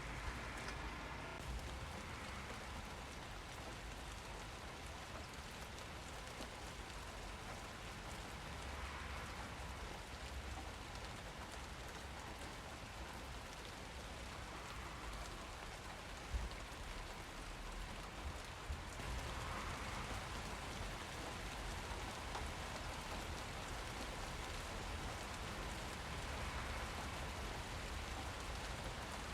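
Steady rain falling on surfaces, a continuous hiss of drops with a couple of brief louder taps about two-thirds of the way through.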